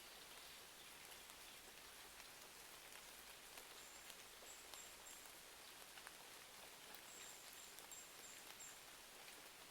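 Faint, steady rain ambience with scattered soft crackles from a wood fire. Two brief runs of faint, high chirps come about four seconds in and again about seven seconds in.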